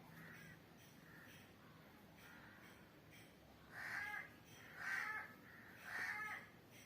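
A crow cawing three times, about a second apart, in the second half, with fainter calls before.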